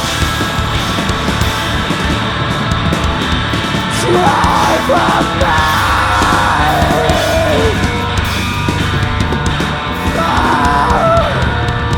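Loud live rock band playing heavy music, with shouted vocals coming in about four seconds in and again near the end.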